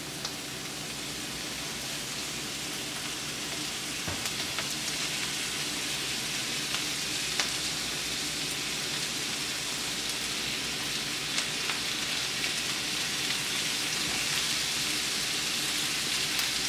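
Ground beef frying with sautéed onions and garlic in a frying pan: a steady sizzling hiss with occasional small pops, slowly growing louder as the meat heats.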